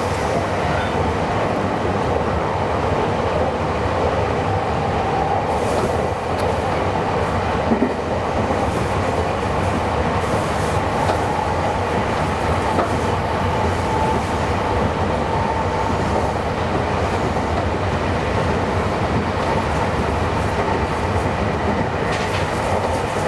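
Meitetsu 9500 series electric train running at speed, heard from just behind the driver's cab window: a steady rumble of wheels on rail with a couple of clacks over rail joints and a faint whine at times.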